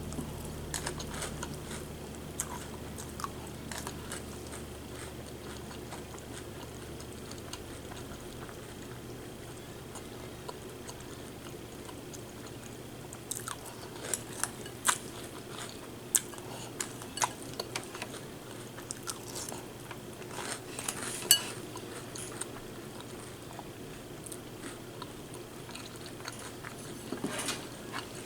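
A person eating cereal with a spoon: chewing, and the spoon clicking against the bowl. The clicks come scattered, thickest in the middle stretch, with the loudest about three-quarters of the way through.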